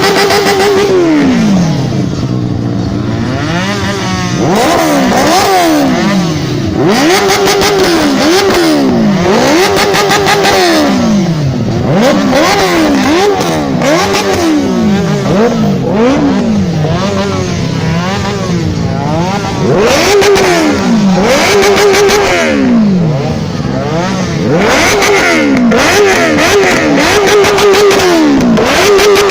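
Benelli TNT 600i's inline-four engine revved over and over in short throttle blips: each time the pitch climbs fast, holds for a moment, and falls back toward idle.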